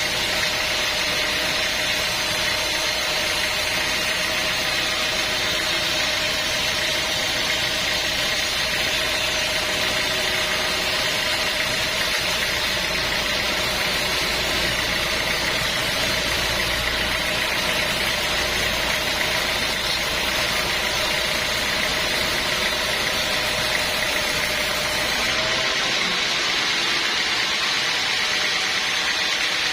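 Sawmill machinery running steadily, a constant engine-like drone with a few held tones. The deepest rumble cuts out abruptly about 25 seconds in while the rest carries on.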